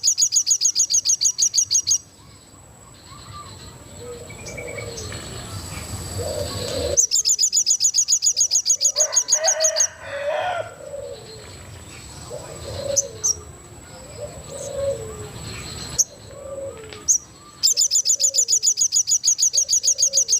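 A songbird singing three bursts of a loud, rapid rattle of high notes, about ten a second, each lasting around three seconds. Softer short, low calls come between the bursts.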